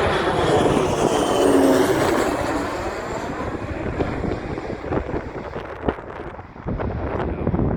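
Jet airliner passing close on its landing approach: engine noise with a high whine that falls slowly in pitch, loudest about a second and a half in and then fading. In the second half, gusts of wind buffet the microphone.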